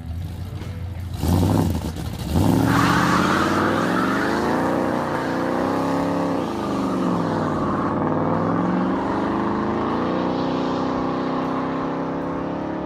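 1967 Ford Galaxie's rebuilt 390 V8 gives a short rev. Then, about two and a half seconds in, it runs at high revs while the rear tyres spin and screech in a smoky burnout. The engine note rises and falls several times as the car moves off, fading a little near the end.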